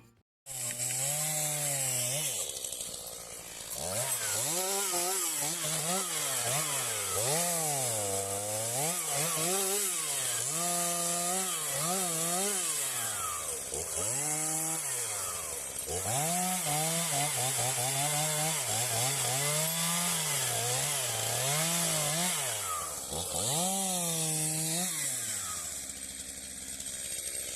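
Two-stroke chainsaw revving up and down again and again as branches are cut off a felled tree trunk. Its engine pitch rises with each cut and falls back between cuts, about once every one to two seconds.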